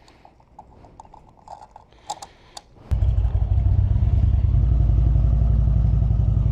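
A few light clicks, then about three seconds in the Indian Springfield's V-twin engine fires up at once and settles into a steady, loud idle.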